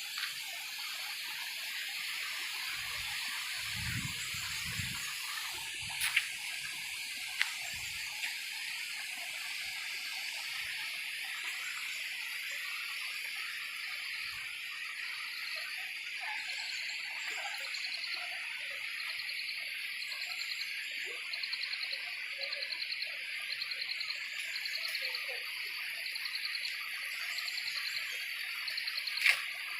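Steady chorus of insects chirring. About halfway through, a fast, even pulsing trill joins in. A few sharp clicks occur, the loudest near the end.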